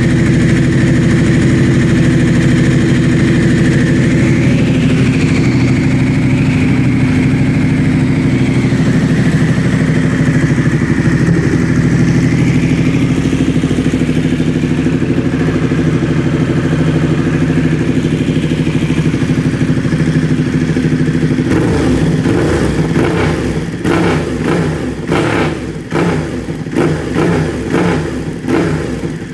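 2012 Ducati 1199 Panigale's Superquadro V-twin running through an SC-Project exhaust, idling steadily for about twenty seconds. After that the steady note breaks up into an uneven, choppy sound with a string of sharp cracks.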